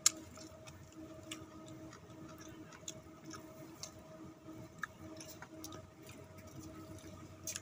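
A person eating by hand, chewing with scattered soft clicks and smacks from mouth and fingers, over a faint steady hum.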